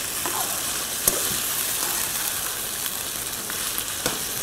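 White chicken karahi sizzling in a frying pan over a high gas flame as it fries down, with a slotted spatula stirring through it. Two sharp clicks, about a second in and near the end.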